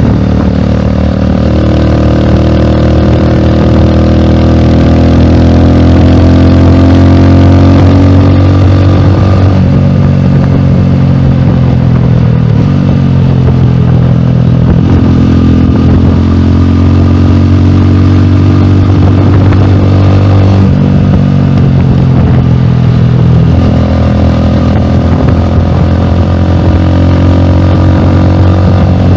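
Rusi Classic 250 motorcycle engine running loudly through an aftermarket bullet pipe on the stock elbow header, its pitch stepping up and down a few times.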